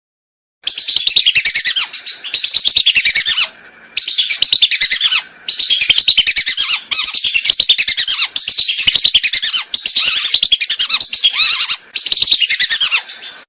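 Recorded lure call of whistling ducks (belibis): many quick, high, falling whistles follow each other in long loud runs. The runs break off briefly three times, at about three and a half, five and a half and twelve seconds in.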